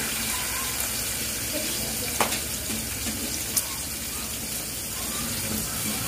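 Bacon-wrapped chicken pieces sizzling steadily in a pan of hot oil, with two sharp clicks at about two and three and a half seconds in.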